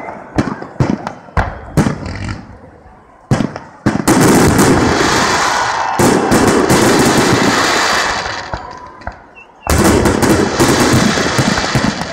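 Fireworks exploding. Several sharp separate bangs come in the first two seconds, then a long dense volley of crackling bursts runs from about four to eight seconds, and another begins near ten seconds.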